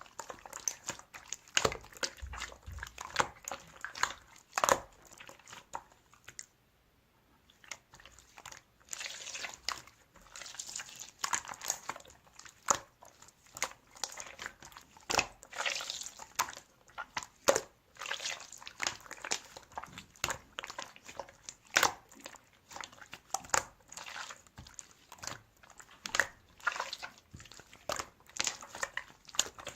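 Slime being squeezed, poked and stretched by hand, making a fast, irregular run of sticky clicks, pops and crackles, with a short pause several seconds in.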